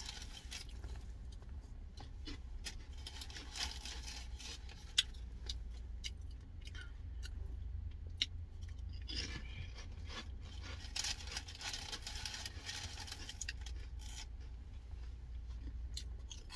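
Close-up eating sounds: crunchy chewing with many small sharp clicks and some rustling, over a steady low hum.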